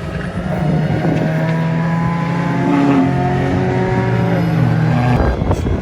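Race car engine running at steady, unchanging revs, then cutting off suddenly near the end.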